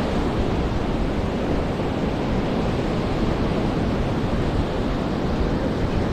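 Ocean surf rolling onto a beach: a steady rushing wash of waves with no single break standing out.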